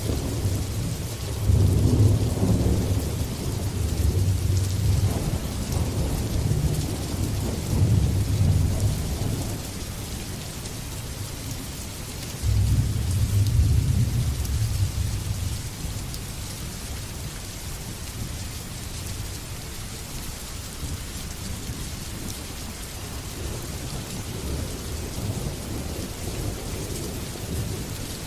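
Steady rain hissing, with rolling thunder. A long low rumble runs through the first ten seconds. Another cracks in suddenly about halfway through and dies away over a few seconds, leaving rain and faint distant rumbling.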